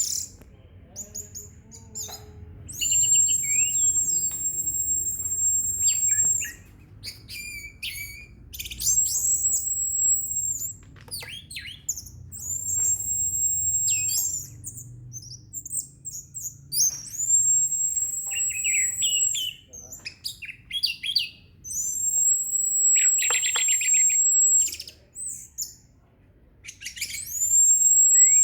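Orange-headed thrush singing: bursts of quick, varied chirps and whistles alternating with long, very high, steady buzzing notes of a few seconds each, repeated about every four to five seconds.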